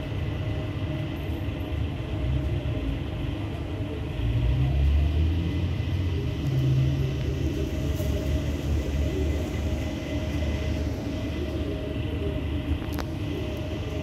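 Steady low rumble with a constant hum, swelling louder for a few seconds in the middle, and a single sharp click near the end.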